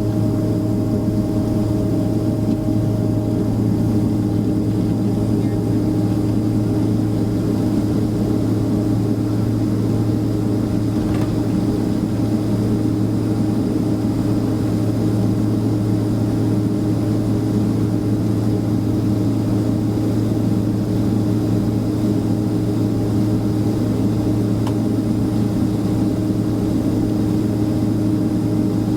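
Steady cabin drone inside a Boeing 767-300ER on the ground, with a constant low hum and a second, higher hum over a rushing noise.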